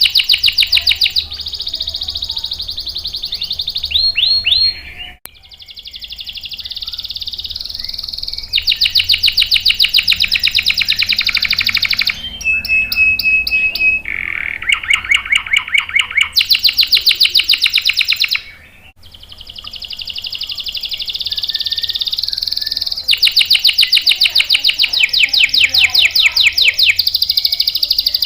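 Canary singing loudly in long, fast trills (rolls) of rapidly repeated notes. The phrases switch from one trill to the next, with short breaks between song bouts and a brief held whistle partway through.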